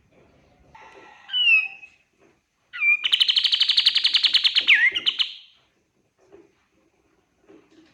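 Kapas tembak songbird singing: a short falling call, then a loud rapid trill of about a dozen notes a second lasting nearly three seconds, ending in a downward sweep.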